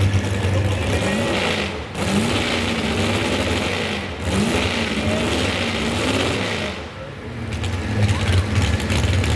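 Modified 4x4 pulling truck's engine revved up and down several times over a steady low engine drone.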